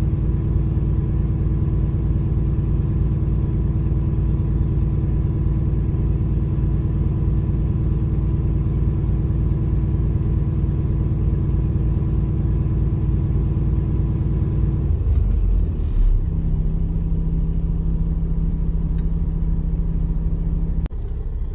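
Diesel truck engine running steadily at raised idle during a parked DPF regeneration. About fifteen seconds in, its note shifts slightly higher, and it drops a little in level near the end.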